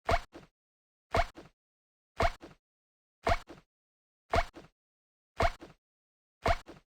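A short sound effect looping about once a second, identical each time: a quick rising chirp followed by a smaller second hit, with dead silence between repeats.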